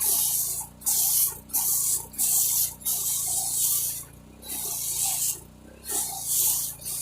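Pressure washer spraying the tractor in about seven short hissing bursts as the trigger is pulled and released, with one longer burst near the middle.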